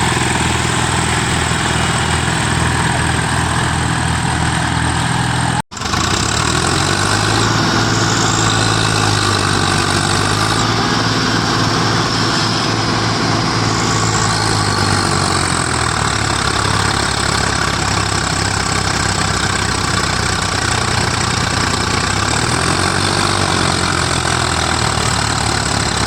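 Tractor engine running, its pitch stepping up and down several times as the revs change, with a sudden brief cut-out about six seconds in.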